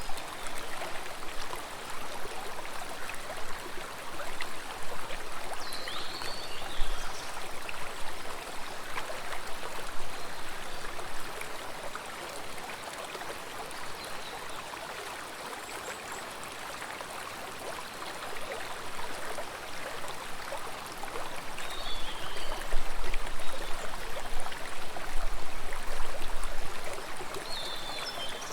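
Water running in a stream, a steady rushing and trickling that swells louder in the second half. A few short high chirps cut through it now and then.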